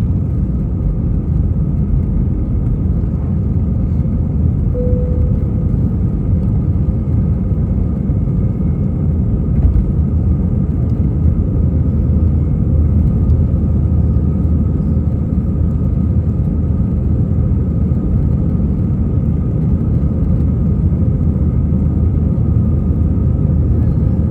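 Airbus A320's IAE V2500 turbofan engines and rushing airflow heard inside the passenger cabin during takeoff: a loud, steady rumble with a faint high hum laid over it.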